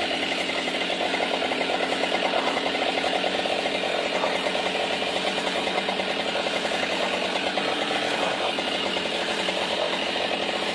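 An engine idling steadily with a fast, even pulse, over water gushing out of a sweet gum tree.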